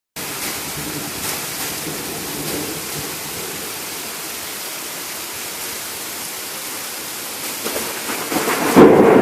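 Heavy rain pouring steadily during a thunderstorm. Near the end a thunder rumble builds and breaks into a loud crack just before the end.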